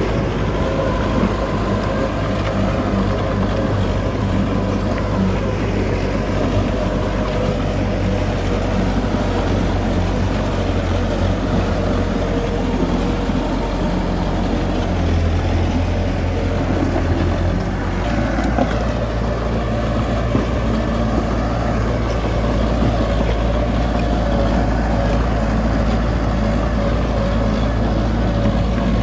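Heavy diesel engine running steadily, its low note shifting about halfway through.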